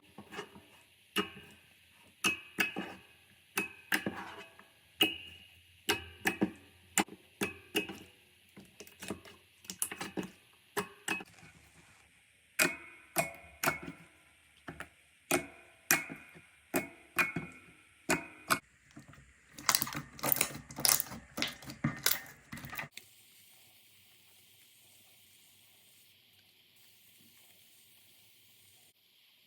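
Slime giving a run of sharp clicking pops, about two a second, then a quick dense flurry of pops about two-thirds of the way in. It stops, leaving near quiet for the last several seconds.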